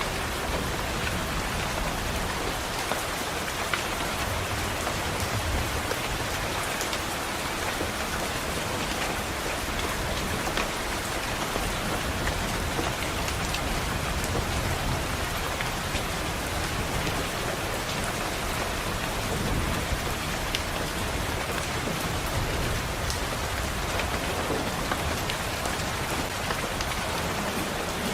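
Steady rainfall, an even hiss with scattered sharp ticks of drops striking.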